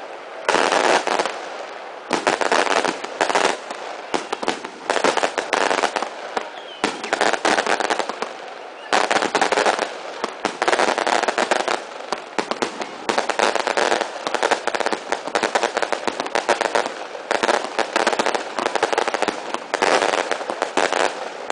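Fireworks going off in a long barrage: dense, rapid crackling bangs in bursts of one to two seconds, one after another with short lulls between them.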